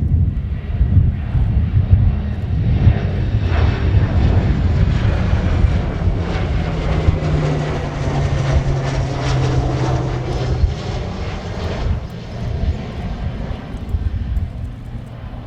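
Boeing P-8A Poseidon's two CFM56 turbofans as the jet flies past: the noise swells, peaks about halfway through with the engine tone dropping in pitch as it passes, then fades away.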